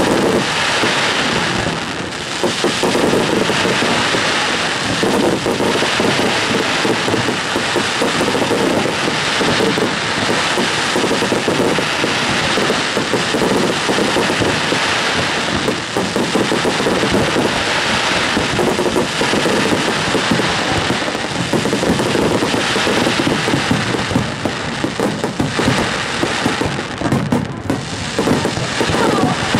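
Fireworks display: many aerial shells bursting one after another in a dense, unbroken barrage of bangs and crackling.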